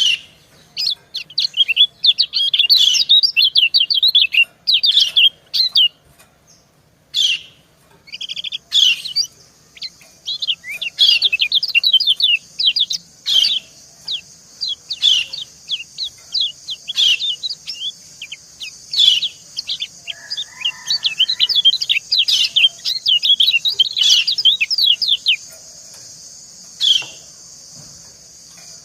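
Yellow white-eyes (kecial kuning) chirping: run after run of quick, high, short notes with brief gaps, the 'ciak' calls of a female answered by a male. A steady high hiss sits under the calls from about a third of the way in.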